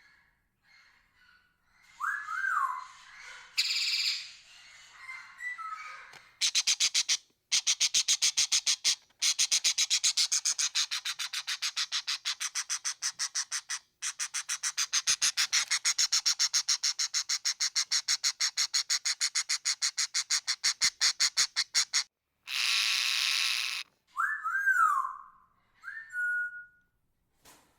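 Parrot calls: a couple of short whistles sliding up and down in pitch, then a long run of rapid harsh chattering notes, several a second, and a loud screech near the end before the whistles return.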